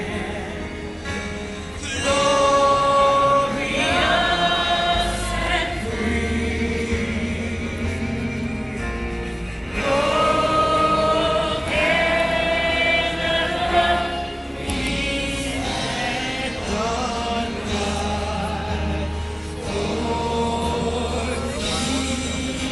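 Choral music: a choir singing long, held notes over a steady low accompaniment.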